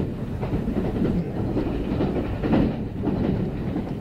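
Kintetsu 9030-series electric train running at speed, heard from inside the passenger car: a steady rumble with irregular clacks of the wheels over the rail joints.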